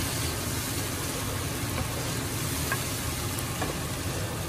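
Onion, tomato and garlic masala frying in oil in a coated pot, a steady sizzle as a wooden spoon stirs it, with a few light knocks of the spoon.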